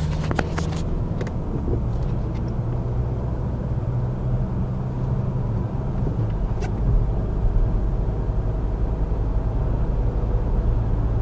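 A VW Jetta's 1.9-litre four-cylinder turbodiesel running under way, a steady low drone whose engine note shifts about six seconds in.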